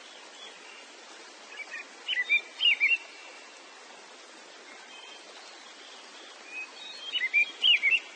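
Birds chirping in short whistled phrases, one burst of song about two seconds in and another near the end, over a steady background hiss.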